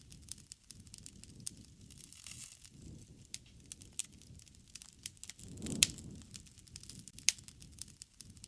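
Wood fire crackling: scattered sharp pops and snaps over a soft low rush of burning. The rush swells and the loudest pop comes a little past halfway, with another strong pop about a second and a half later.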